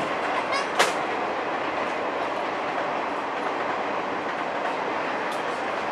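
Freight train of empty cars rolling past: a steady noise of wheels running on the rails, with one sharp click about a second in.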